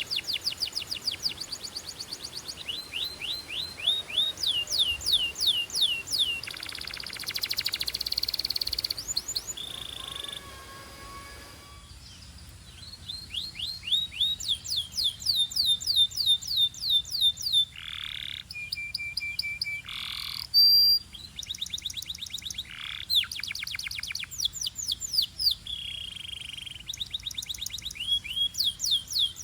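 Domestic canary singing: a string of rapid trills, each a fast run of repeated down-slurred notes, changing from one phrase to the next. There is a buzzing roll about seven seconds in and a quieter stretch a little after ten seconds.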